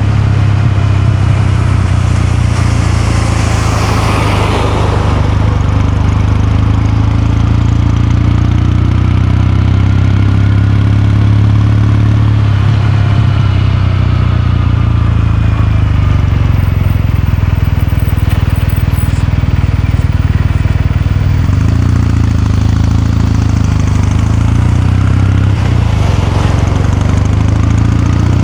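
Kawasaki Meguro K3's air-cooled parallel-twin engine running at a steady speed, with its exhaust note holding an even pitch. A brief rush of noise passes about four seconds in.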